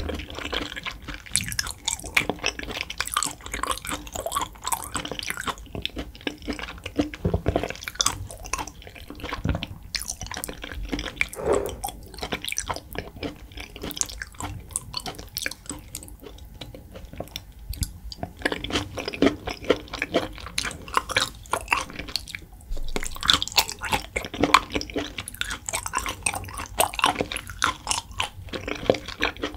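Close-miked chewing of raw beef yukhoe: soft, wet, squelchy mouth sounds with many small irregular clicks, going on without a break.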